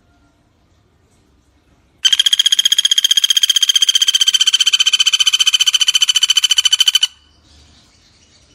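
Common flameback woodpecker (pelatuk bawang) giving a loud, rapid rattling trill of evenly spaced high notes. It starts about two seconds in, lasts about five seconds and stops abruptly. Faint bird calls sound before and after it.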